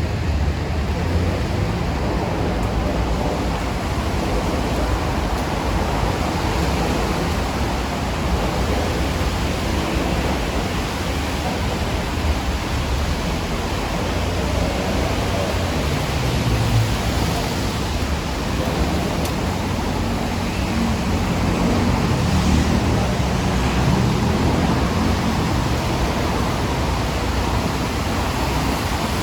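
Steady rain falling, an even hiss, over a low rumble of city traffic that swells in the middle and again later on.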